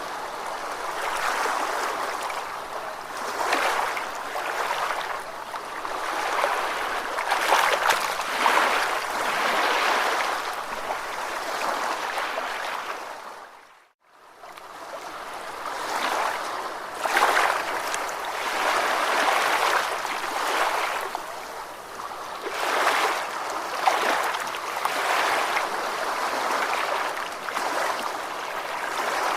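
Ocean waves washing and surging in steady, uneven swells. About halfway through, the sound fades out to silence and fades back in, like the join of a looped recording.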